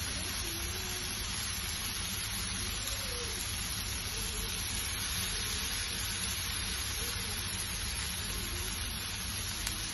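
Marinated chicken tikka on skewers sizzling in hot oil in a frying pan, a steady hiss.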